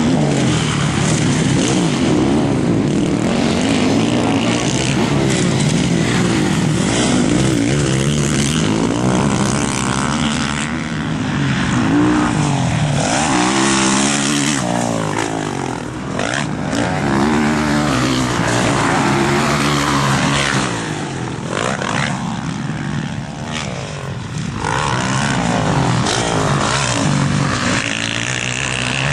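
Several motocross bikes' engines revving hard and easing off as they ride past, their pitches climbing and falling and overlapping.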